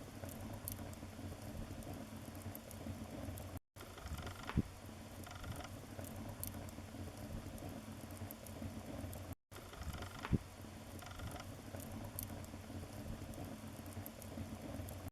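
Wood fire crackling in a fireplace: a steady low crackle with scattered small snaps and a few louder pops, the loudest about four and a half seconds and ten seconds in. The sound cuts out for an instant twice.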